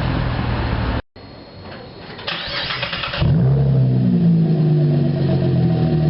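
A car engine running loud, then after a cut a starter cranks for about a second and the engine catches and settles into a steady idle.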